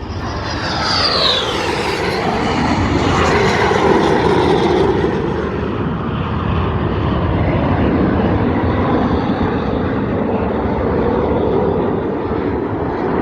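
Low-flying display aircraft passing by: a falling whine in the first couple of seconds as it goes past, then a loud, steady engine rumble.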